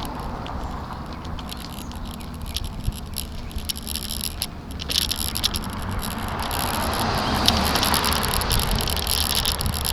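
Bicycle coasting downhill: quick rattles and clicks from bumps in the road over a rush of wind and tyre noise that grows louder from about halfway in as it picks up speed.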